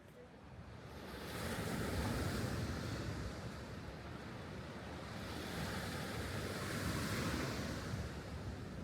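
Mediterranean sea waves washing in on the shore, the surge swelling about a second in, easing, then swelling again from about five seconds.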